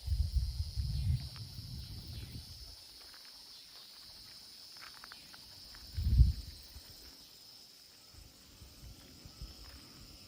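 Wind gusts buffeting the microphone in low rumbling bursts, a long one in the first two seconds and a short one about six seconds in, over a steady high-pitched insect drone and a few faint chirps.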